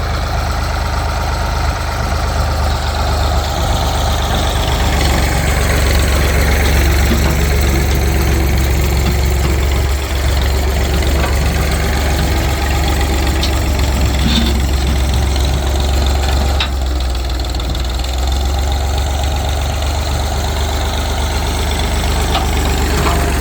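Tractor engine running steadily while the tractor drags a box blade through the ground, with a few light knocks.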